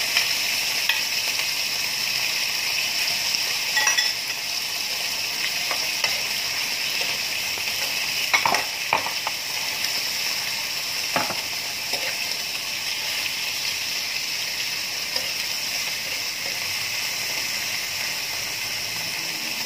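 Chicken sizzling as it is sautéed in a frying pan, a steady hiss, with a metal spoon clicking and scraping against the pan a few times as it is stirred.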